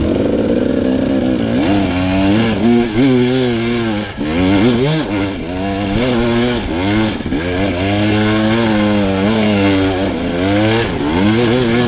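Enduro dirt bike engine revving hard, its pitch rising and falling again and again as the throttle is worked, the sound of a rider fighting up a steep slope.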